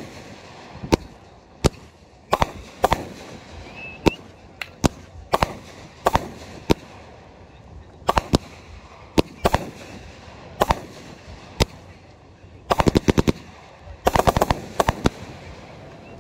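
Aerial fireworks going off: a string of sharp bangs about one every half second to second, then two fast rattling runs of reports near the end.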